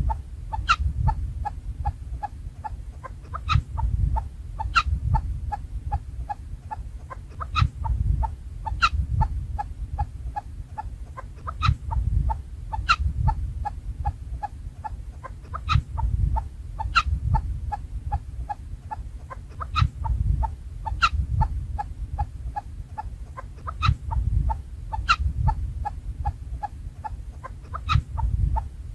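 Chukar partridges calling: a fast, steady run of short clucking notes, with a sharper, louder note about once a second, over a low rumble.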